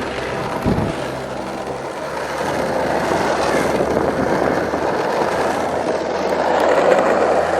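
Skateboard wheels rolling on pavement: a steady, continuous rumble.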